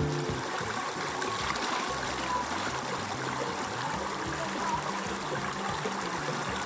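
Stream water running steadily over rocks, with quiet background music underneath.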